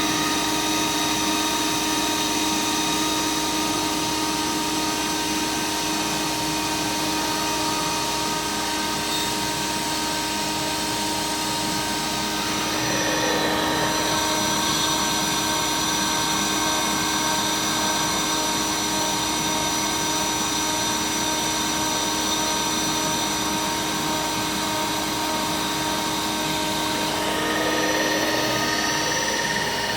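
CNC router's spindle running steadily with a high whine while its bit mills aluminum composite panel. The tone shifts briefly about halfway through and again near the end as the machine changes its cutting move.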